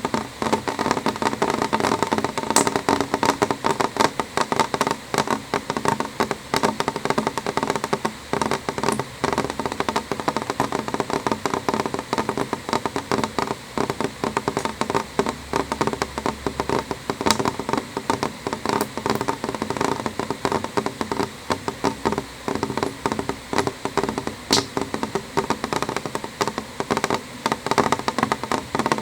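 Rain on a window: a dense, steady patter of many small drops tapping the glass.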